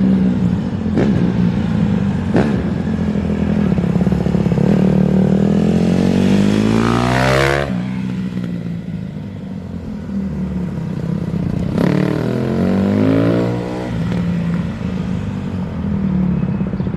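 Honda CRF150R dirt bike's single-cylinder four-stroke engine running. It climbs to high revs about four to seven seconds in and then drops off abruptly, and revs up again more briefly near twelve to fourteen seconds.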